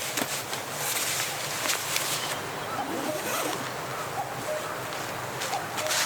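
Wind-blown forest ambience at a campsite: a steady rustling hiss with scattered small clicks and handling noises, and a few faint short chirps.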